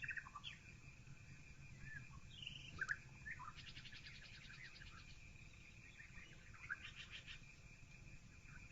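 Songbirds chirping faintly, heard through a partly open window into an empty room: scattered short chirps, with a quick trill a few seconds in and another near the end, over a steady high tone and a low hum.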